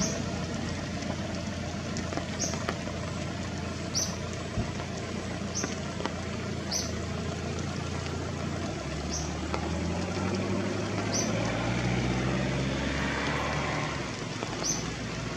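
A motor engine running in the background, its low hum coming in about nine seconds in and rising slightly before fading, with short high chirps repeating every second or so.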